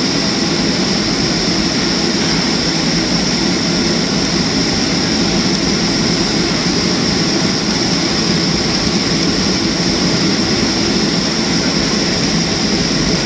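Steady jet-engine cabin noise of a Boeing 737-300's CFM56 engines at low power while taxiing, heard from inside the cabin: an even hiss with a low rumble beneath, unchanging throughout.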